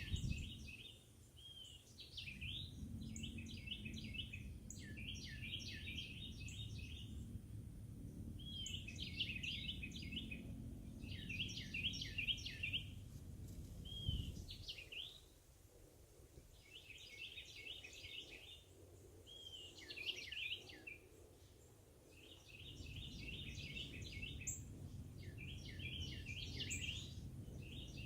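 A songbird singing short phrases of rapid, high trilled notes, repeated every few seconds, over a low rumble.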